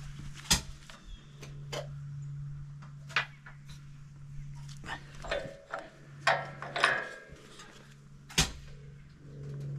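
Scattered sharp metal clanks, clicks and knocks from tools and parts being handled on a band sawmill during setup, with a brief squeaky, ringing stretch in the middle, over a steady low hum.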